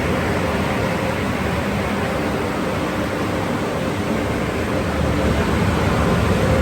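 Automatic car wash tunnel running: a steady rushing noise of its spray and machinery, with a faint hum held underneath.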